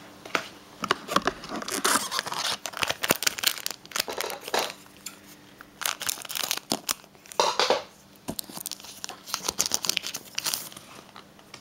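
Foil booster-pack wrapper being torn open and crinkled, with cards handled: a long run of crackling rustles and sharp clicks.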